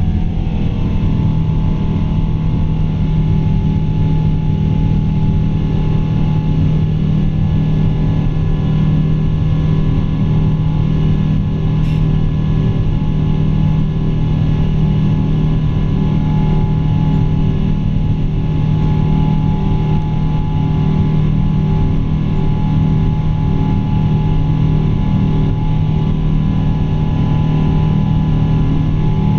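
Boeing 777-200's Pratt & Whitney PW4000 turbofans running steadily: a heavy low drone with several steady whining tones layered on top.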